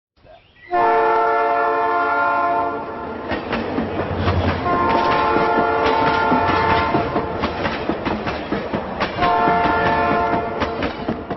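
Train horn sounding three long blasts of several tones at once, over the clickety-clack of wheels running over rail joints.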